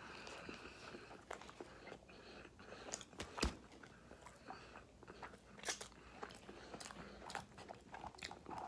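A person chewing fast food close to the microphone: soft crunches and small mouth clicks, with one sharper crunch about three and a half seconds in.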